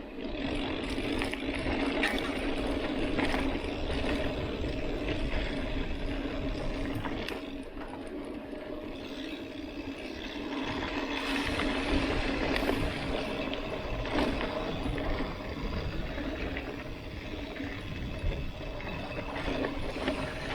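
Mountain bike riding on a dirt road: a steady hum from the tyres and drivetrain, with the chain and frame rattling and clicking over bumps.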